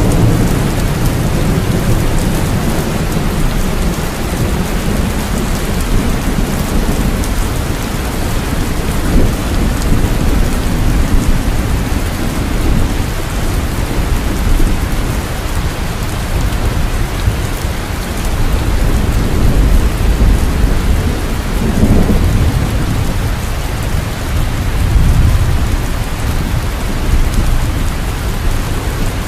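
Steady heavy rainfall with rolling thunder, the low rumble swelling and fading several times.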